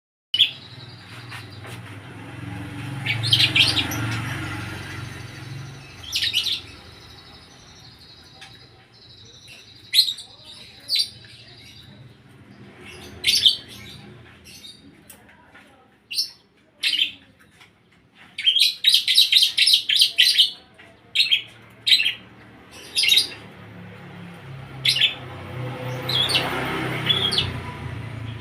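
Lovebird singing in short, sharp chirps and bursts, with a fast run of chirps about two-thirds of the way through. Its song is filled in with calls learned from ciblek and prenjak birds.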